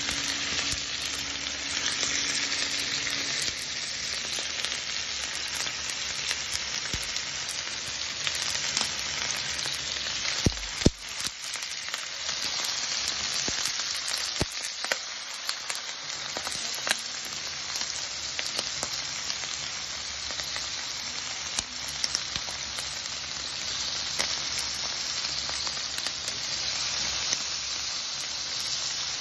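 Chicken pieces frying in oil in a nonstick pan: a steady sizzle with scattered small crackles. A single knock comes about eleven seconds in.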